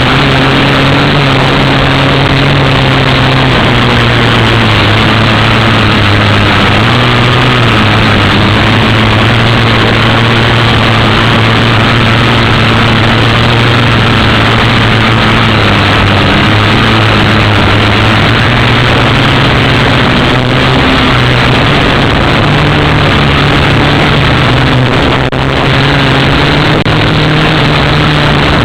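Syma X8W quadcopter's motors and propellers running steadily in flight: a loud, even drone whose pitch wavers slightly as the throttle shifts.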